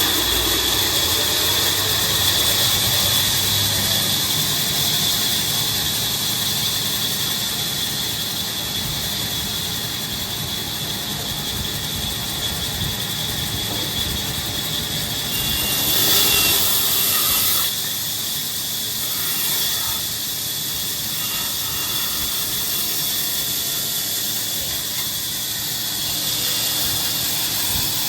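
Power saw running with a steady high whine and hiss, louder and harsher for about two seconds midway.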